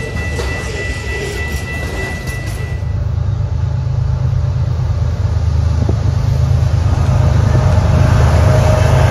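Diesel-hauled train approaching: a deep engine and rail rumble that grows steadily louder. A steady high tone sounds over it and stops about three seconds in.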